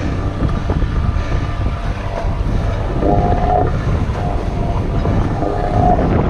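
Strong wind buffeting the microphone over the sailboat's engine running. A whining tone comes and goes a few times, from about three seconds in and again near the end.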